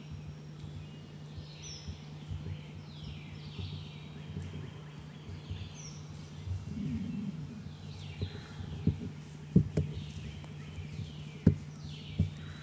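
A bird calling over and over, each call a quick note sliding downward, about one every second or two, over a steady low hum. A few sharp knocks stand out near the end.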